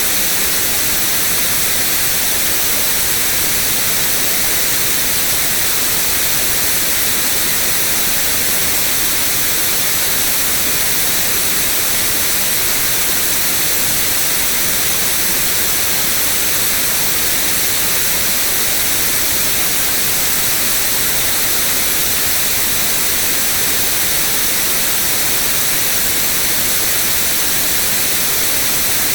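White noise: a steady, unchanging hiss, brightest in the treble.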